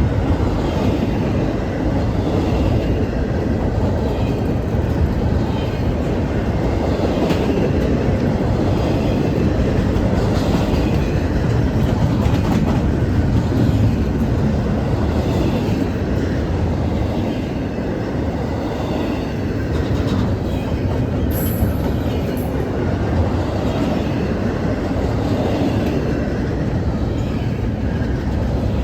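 CSX intermodal freight train rolling past, a steady low rumble of cars with wheels clicking over the rail joints. A brief high squeak of wheel on rail about two-thirds of the way through.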